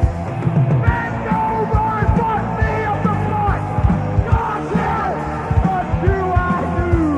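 Loud live heavy metal band playing: steady drum hits and electric guitars, with a high lead line of sliding, bending notes from about a second in.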